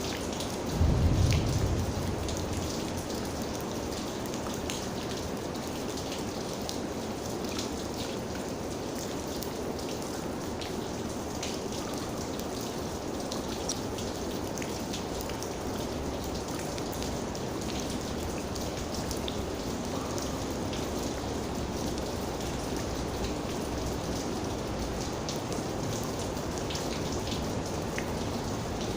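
Steady rain with many individual raindrops striking close by as sharp ticks. A brief low rumble comes about a second in and is the loudest moment.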